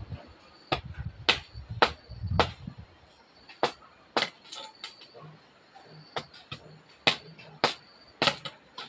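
A hand tool striking repeatedly in garden work, about fifteen sharp blows at an uneven pace, with some brief pauses between groups.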